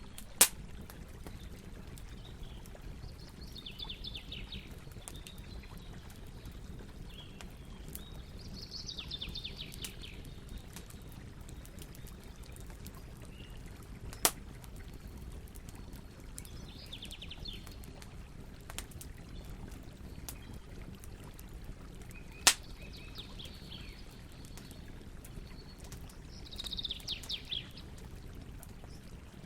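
Campfire burning with a steady low rustle and three sharp pops of burning wood, several seconds apart. Birds sing short trilled phrases in the background, five or so times.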